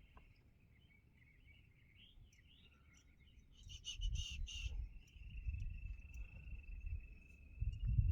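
Outdoor ambience: birds chirping briefly, then a steady high insect trill from about five seconds in. Low rumbling noise comes in about four seconds in and again near the end.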